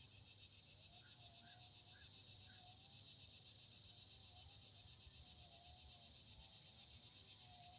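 Faint outdoor ambience: a steady insect chorus, with four quick bird chirps in the first few seconds.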